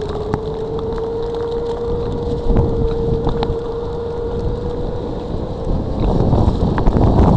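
Wind buffeting the microphone in a freezing-rain storm, with sharp ticks of sleet striking an umbrella. A steady mid-pitched whine holds for about five seconds and fades out, and the wind rumble grows louder near the end.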